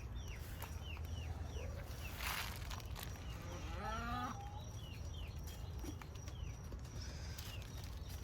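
Birds chirping over and over in short falling notes, with one drawn-out farm-animal call about four seconds in and a brief rustle a little before it.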